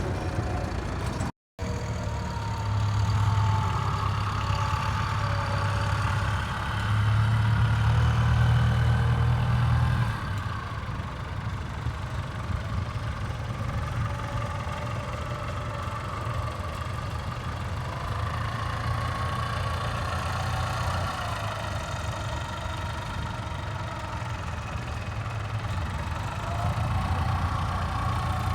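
Tractor engine running steadily, its low hum louder for several seconds early on and then settling. The sound cuts out completely for a split second about a second and a half in.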